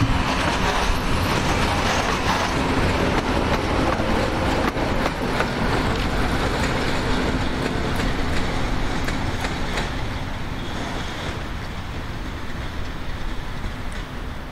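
Diesel freight train, led by a TBD class 06 diesel locomotive, running past on the rails with engine and wheel noise. The sound is steady at first and grows fainter over the last few seconds as the train moves away.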